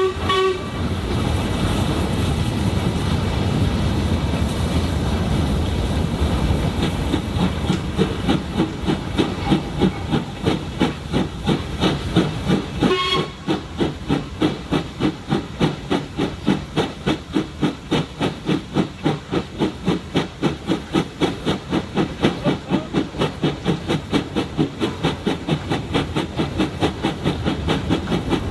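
Steam locomotive running with a steady hiss and a rhythmic beat that gradually quickens from about two to three beats a second. Its whistle sounds briefly twice, once at the start and again about halfway through.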